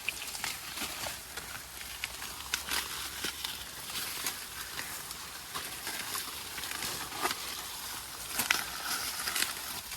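Rustling and crackling of dry plant material, with many scattered sharp clicks and no steady rhythm.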